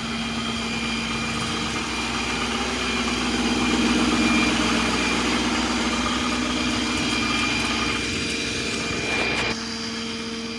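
Ford F-750 Super Duty tow truck's Power Stroke diesel engine idling with a steady hum. The sound drops abruptly about nine and a half seconds in.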